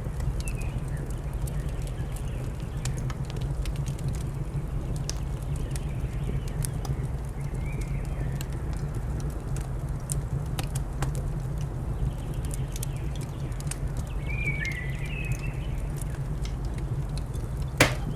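Wood fire crackling, with scattered sharp pops over a steady low rumble and one louder crack near the end. A few short, high bird chirps come through, the most noticeable about two thirds of the way in.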